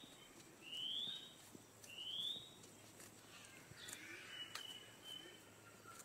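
Bird calling: two clear rising whistled notes about a second apart, then fainter thin high notes later on.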